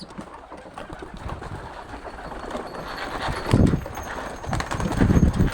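Pet birds at close range, calling and moving about, with two loud low bursts, one about three and a half seconds in and one near the end.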